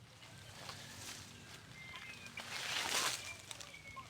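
Rustling and crackling in forest undergrowth, swelling to its loudest about three seconds in, with a few short, faint whistled bird notes.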